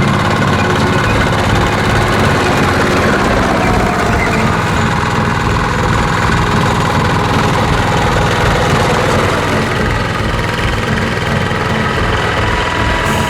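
Small farm tractor's engine running steadily while plowing.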